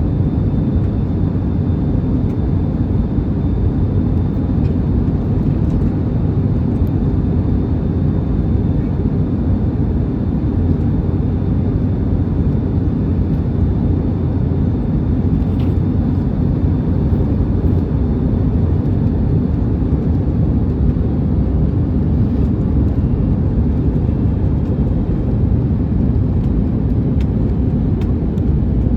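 Steady rumble of an Airbus A321neo's jet engines and airflow heard inside the cabin, with a faint high whine running under it.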